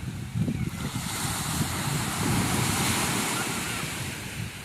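Sea waves washing on the shore, one wash swelling about a second in and fading near the end, with wind rumbling on the microphone.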